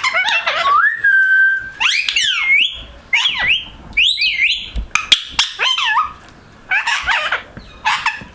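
Pet parrot calling and whistling in a string of short swooping, warbling calls, with one held whistle about a second in.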